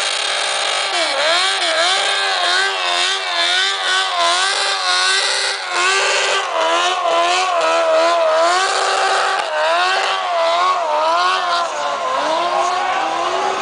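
A racing truck's engine revved up and down over and over, its pitch rising and falling about once a second, over a steady hiss of noise.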